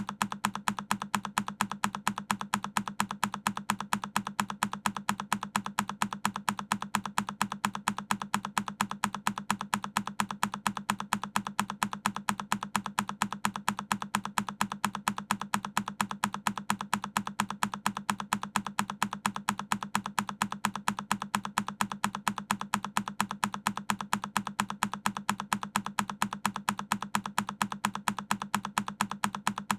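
A single key on a Keychron K10 mechanical keyboard being pressed over and over as a loop, each press a sharp click, repeating evenly several times a second.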